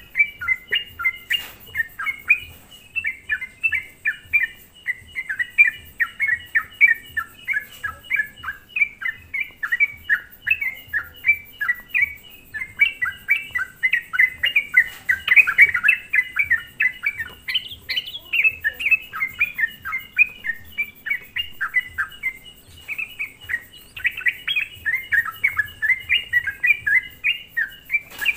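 Yellow-vented bulbul (trucukan) singing continuously in a rapid, bubbly chatter of short chirping notes, the prolific 'gacor' song used as a lure call to provoke other bulbuls.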